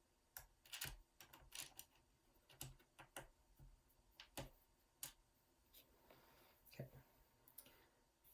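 Faint, irregular small clicks and taps of a screwdriver working the bottom-panel screws of a laptop and the small screws being set down, about fifteen over several seconds.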